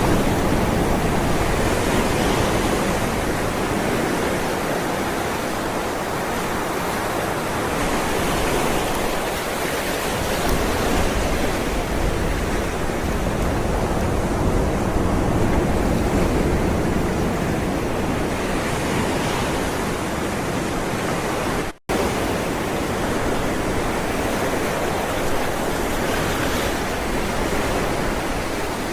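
Ocean waves rolling and breaking, a continuous rushing wash that swells and eases slowly. The sound cuts out for an instant about three-quarters of the way through.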